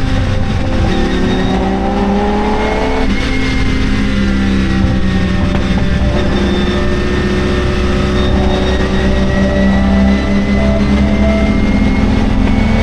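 Lamborghini Miura P400S's V12 engine accelerating hard: its pitch climbs for a couple of seconds, drops sharply at a gear change about three seconds in, then climbs slowly again.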